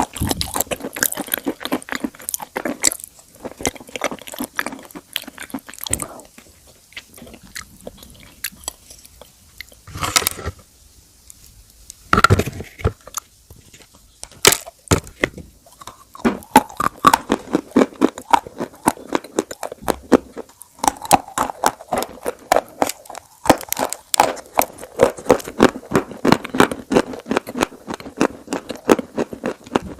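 Close-miked eating of crunchy food: repeated bites and chewing, a dense run of sharp crackling crunches. There is a quieter stretch with a few single loud cracks around the middle, and the crunching is busier and louder in the second half.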